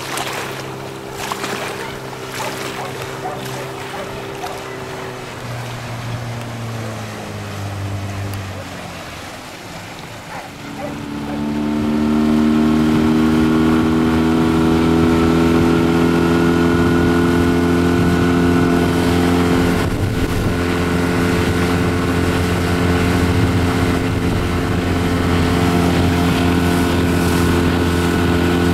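Outboard motor on an inflatable boat running at low revs, easing off, then opened up about eleven seconds in, its pitch rising and then holding steady at high revs under way.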